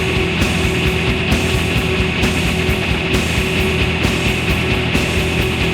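Instrumental noise rock: distorted electric guitars, bass and drums playing a loud, driving riff with a steady beat.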